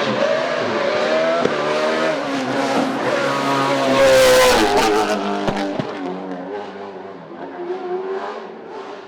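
Hillclimb race car's engine running hard, its pitch climbing and dropping through gear changes, with a few sharp cracks. It is loudest about four seconds in, where the pitch falls, then fades as the car moves away.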